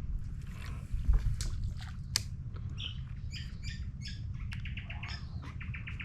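Wild birds calling in short chirps, with two fast runs of repeated high notes, about a dozen a second, in the second half. A few sharp clicks come in the first two seconds, over a steady low rumble.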